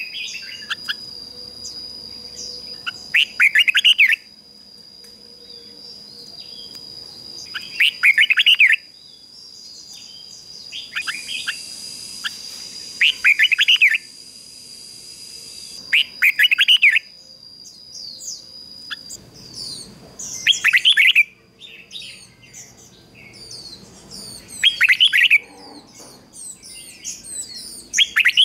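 Red-whiskered bulbul singing short, loud warbled phrases about every four to five seconds, the song of a decoy bird used to provoke wild bulbuls. A steady thin high tone runs underneath until about two-thirds of the way through, and smaller high chirps come in near the end.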